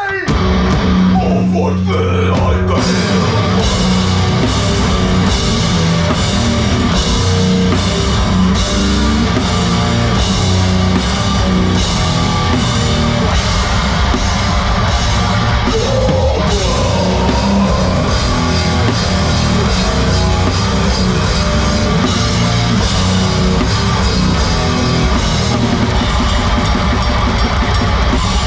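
Live heavy rock band playing loud and distorted, with a driving drum kit and guitars, as recorded from the audience. The full band comes in hard just after the start.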